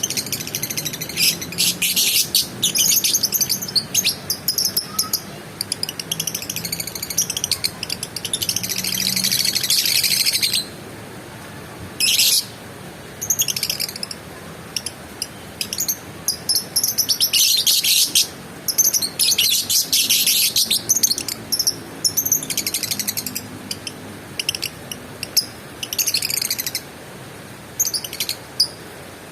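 Lovebird chattering in long bouts of rapid, high-pitched chirps, each lasting a few seconds, with short breaks between them.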